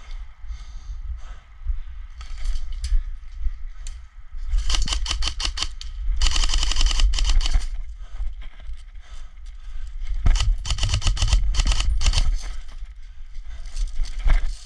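Airsoft gun firing rapid full-auto bursts, three strings of fast clicking shots, the longest about two seconds, with a low rumble of wind and movement on the microphone.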